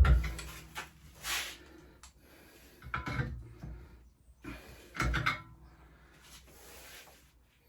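Several irregular knocks of a hammer striking a bent steel part of a pit bike frame to reshape it. The first blow is the loudest, with another heavy one about five seconds in.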